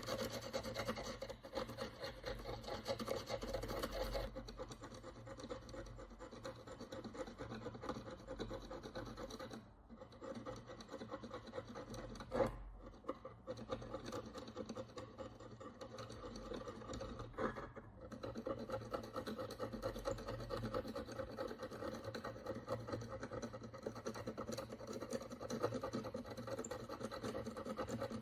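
A hand tool scratching and scraping dirt and oxidation off the surface of a Roman bronze coin in quick, fine strokes. There is a brief pause about ten seconds in, and a couple of sharper ticks.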